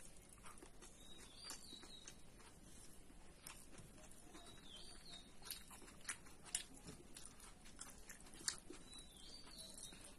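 Quiet eating sounds: a person chewing, with scattered sharp mouth and lip clicks, the loudest about six and a half and eight and a half seconds in. A faint, high, wavering chirp comes three times, about a second and a half, five seconds and nine seconds in.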